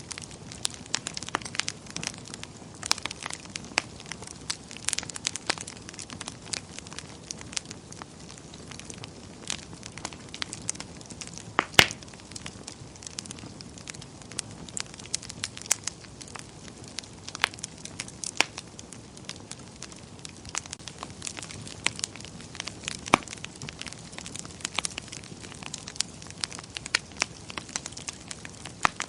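Wood fire burning in a fireplace, crackling with frequent irregular pops over a soft steady hiss, with one sharper pop about twelve seconds in.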